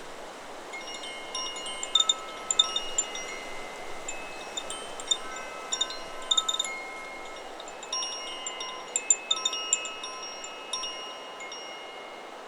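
Chakra Chimes 'Solar Plexus' wind chime ringing as the wind moves it, in several clusters of strikes whose tones hang on and overlap, over a steady wind hiss.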